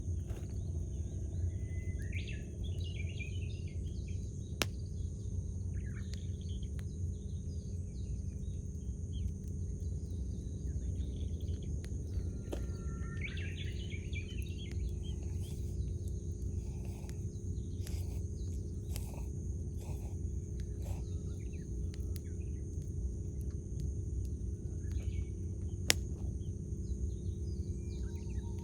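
Wood campfire crackling, with a few sharp pops, the loudest about 26 seconds in, over a steady low rumble. Birds call in short phrases now and then, about 2 and 13 seconds in and again near the end, over a steady high-pitched drone.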